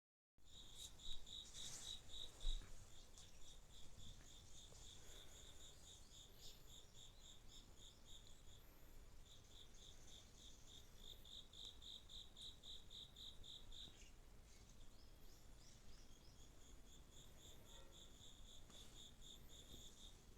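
Faint crickets chirping: long even trains of short high-pitched chirps, about five a second, broken by brief pauses. A couple of soft knocks about one to two and a half seconds in.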